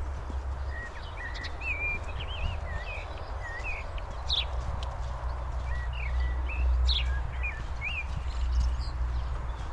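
Small birds chirping in a forest: many short, wavering high notes, a few at a time, over a constant low rumble.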